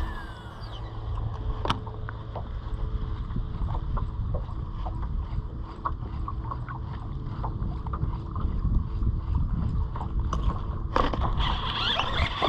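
Low rumble of wind and water around a small jon boat, with a faint steady hum and scattered light clicks. About eleven seconds in there is a sudden burst of splashing.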